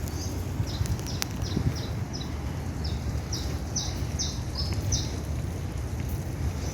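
A small bird calling a quick run of short, high chirps, a couple a second, that stops about five seconds in, over a steady low rumble.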